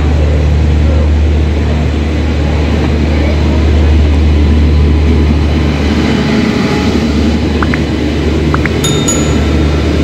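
Express train pulling slowly into the station behind a WAP-7 electric locomotive: a steady low hum with wheel rumble as the coaches roll past close by, and a few short high squeals near the end.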